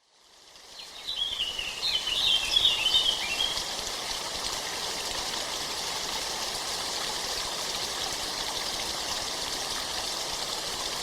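A steady rush of running water, like a stream, fading in over the first second. A small bird sings a short twittering phrase about two to three seconds in.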